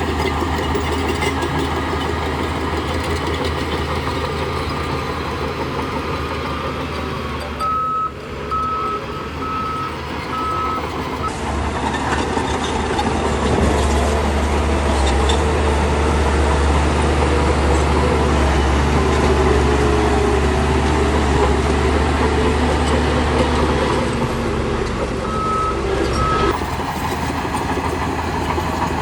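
Heavy diesel engines of earthmoving machines running steadily. A reversing alarm beeps in a short run about eight seconds in and briefly again near the end.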